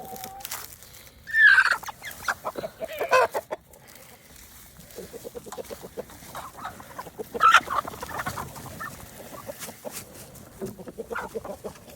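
Hens clucking in short, irregular runs, with two louder calls: one about a second and a half in and another about seven and a half seconds in.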